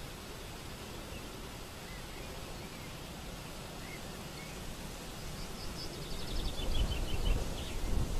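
Lakeside ambience with a steady hiss and a few faint bird chirps, then a bird singing a quick series of notes that fall in pitch from about five seconds in. A low rumble swells and gets louder near the end.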